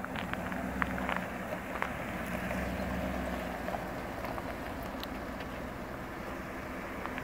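Cadillac Escalade EXT's 6.2-litre V8 idling steadily, with footsteps crunching on gravel.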